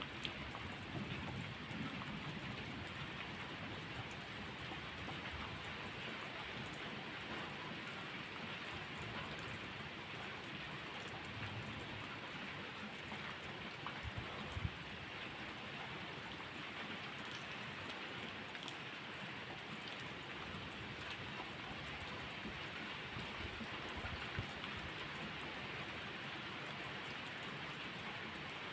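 Steady rain falling as a continuous even hiss, with a few soft low rumbles and a couple of sharp pops, the loudest about halfway through.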